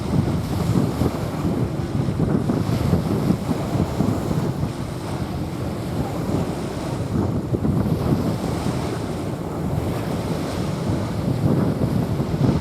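Small waves washing onto a sandy beach, with wind buffeting the microphone and adding a gusty low rumble.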